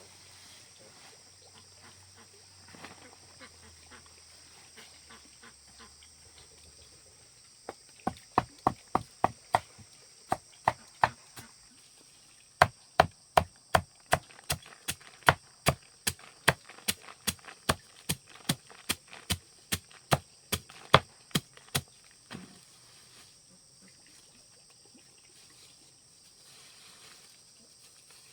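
Steady rhythmic chopping, about two to three sharp strikes a second with a short break partway through, starting about eight seconds in and stopping a few seconds before the end. A high, steady insect drone runs underneath.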